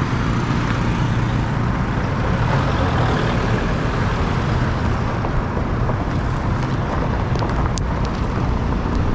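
Steady vehicle and road noise from travelling along a road, a continuous low rumble that holds an even level throughout.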